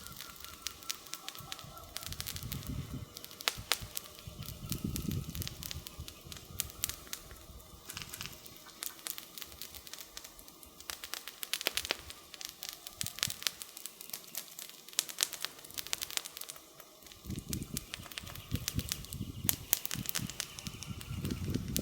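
Wood campfire crackling, with frequent sharp pops and snaps. A low rushing sound swells underneath a few times, most strongly in the last few seconds.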